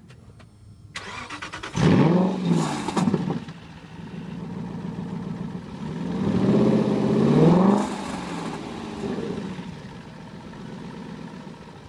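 The 2012 Aston Martin V8 Vantage S's 4.7-litre naturally aspirated V8 is cranked and fires, its revs flaring up and falling back. About six seconds in, one rev rises and drops, and the engine then settles to idle, heard from behind the tailpipes.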